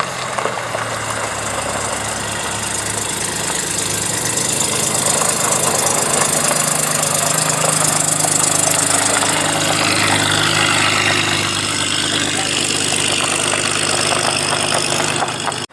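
A car engine running close by at low speed, growing louder over the first half and then holding steady, before the sound cuts off suddenly at the very end.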